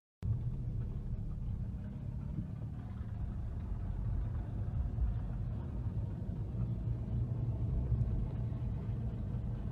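Car on the move: a steady low engine and road rumble, starting suddenly just after the silence.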